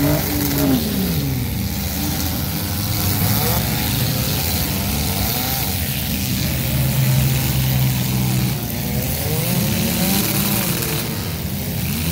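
Demolition derby car engines revving, their pitch rising and falling several times, with a steadier held engine note in the middle.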